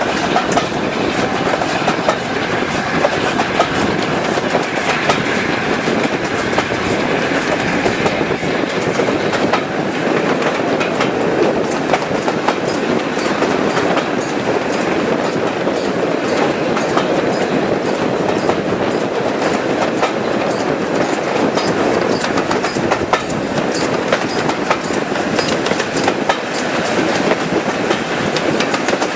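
Train running steadily along the line, its wheels clicking over the rail joints.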